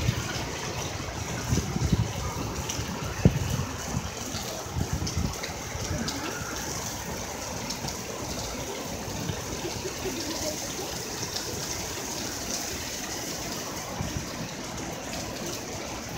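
Heavy rain pouring down on a city street, a steady dense hiss of rain and running water. Low rumbles come and go in the first few seconds, with one sharp knock about three seconds in.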